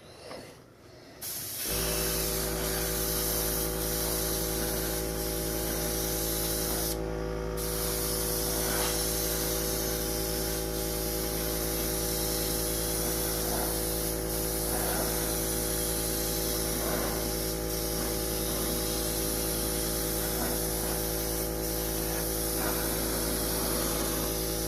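Airbrush spraying primer in a continuous pass to level out the coat: a steady hiss with a steady low hum underneath, starting about two seconds in and briefly breaking about seven seconds in.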